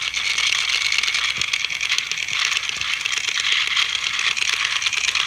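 Battery-powered toy train running along its track: a steady, fast, clicking rattle of the small motor and wheels.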